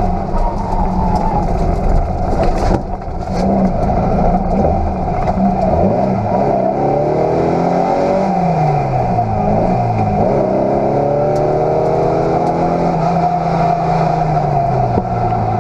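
Salzburg rally VW Beetle's air-cooled flat-four engine driven hard through a stage, heard from inside the cabin. The pitch climbs and drops as it works through gears and slows for corners, with a brief lift off the throttle about three seconds in.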